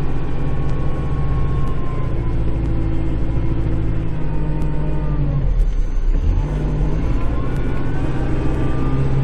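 Kubota Grand L5740 tractor's diesel engine running steadily, heard from inside the cab. Its pitch dips and recovers a little past the middle.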